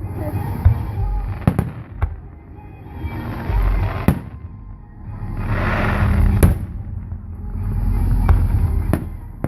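Aerial fireworks display: sharp bangs of bursting shells every second or two over low rolling booms that swell and fade. There is a dense burst of crackle around the middle.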